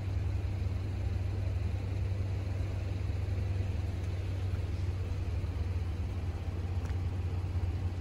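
Steady low rumble of a diesel-hauled commuter train standing at the station platform.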